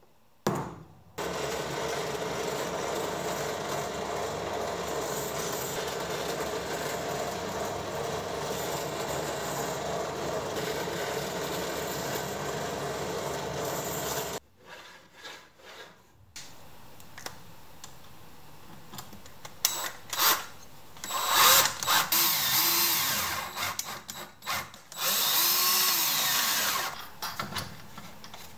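Power drill running steadily for about thirteen seconds, then stopping suddenly. Several shorter, louder bursts of power-tool work and handling noise follow in the second half.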